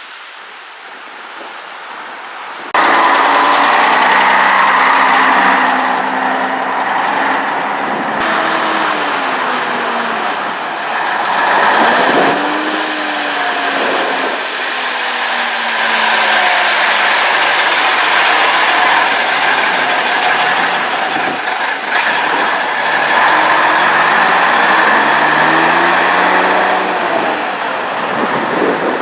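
Vintage Scania trucks' diesel engines pulling away, revving up and dropping back through gear changes. The sound sets in suddenly and loudly about three seconds in.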